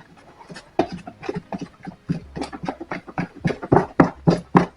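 Epoxy being stirred in a plastic ice cream container with a flat stirrer. The stirrer scrapes against the sides in quick, even strokes, about four a second, starting about a second in. The resin is being mixed with filler powder into thickened epoxy.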